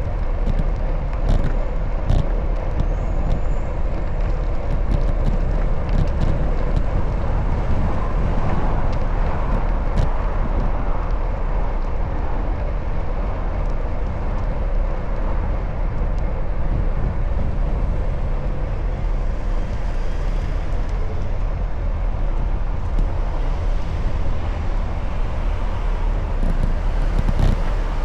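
Steady road and wind noise of a bicycle ride on city streets, with motor traffic, and a few short sharp clicks.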